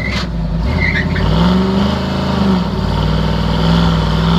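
Car engine held at high revs during a burnout, over a haze of spinning-tyre noise. The engine pitch climbs about a second in and drops back after a couple of seconds.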